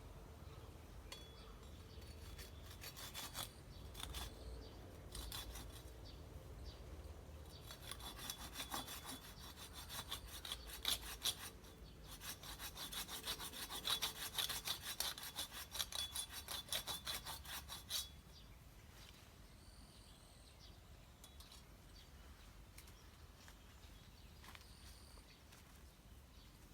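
Hand saw cutting through wood in quick back-and-forth strokes. The strokes are loudest and most steady in the middle and stop about two-thirds of the way through.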